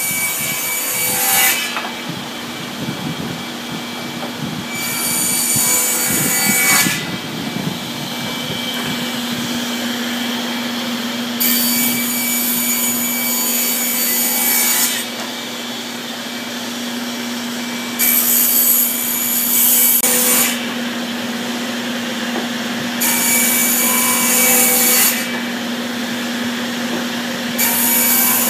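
Power saw cutting wood in a series of passes: about six loud cuts of two to three seconds each, roughly every five seconds, with the saw's motor humming steadily between them.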